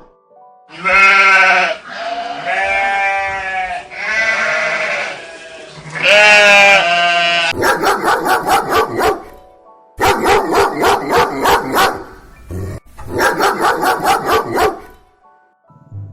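An animal bleating: four long, wavering bleats, then three runs of rapid pulsed calls, over faint background music.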